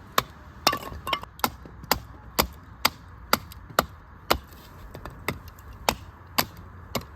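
A knife chopping on a cutting board in even, sharp strokes, about two a second.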